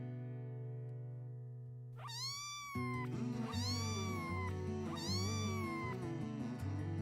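Kitten meowing three times, each call rising then falling in pitch, over steady background music.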